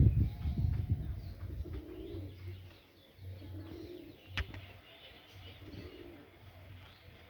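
Domestic pigeons cooing, low rounded coos repeated every second or so, with a sharp click about halfway through.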